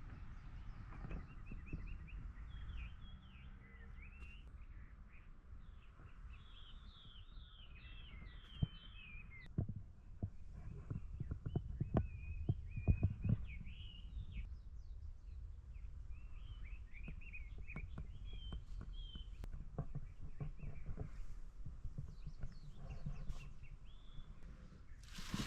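Small birds chirping and calling in short, rising and falling notes over a low steady rumble outdoors, with scattered light knocks and clicks, mostly around the middle.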